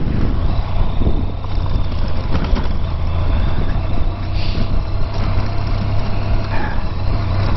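Honda VFR1200X Crosstourer's V4 engine running steadily under way, with wind and road noise.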